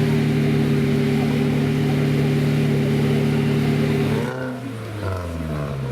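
Off-road vehicle engine held at steady high revs, then let off about four seconds in, the revs dropping and rising again unevenly.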